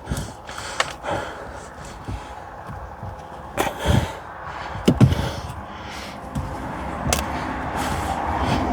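Irregular knocks and thumps of hands-on work, the loudest a few seconds in and again about five seconds in, over a steady noise that grows louder over the last few seconds.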